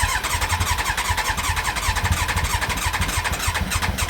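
Yamaha YZF1000R Thunderace inline-four being cranked over on its electric starter with the choke on, starting suddenly and running on in a fast, even churn without catching: the rebuilt carburettors are not yet getting it to fire.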